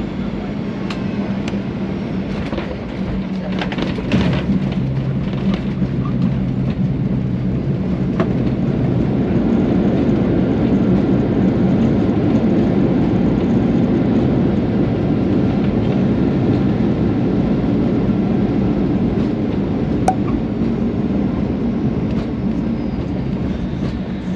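Cabin noise of a Boeing 737-800 with CFM56 turbofans during landing: a loud, steady rumble of engines and airflow. A few knocks come about four seconds in, after which the rumble grows louder and stays loud, easing a little near the end.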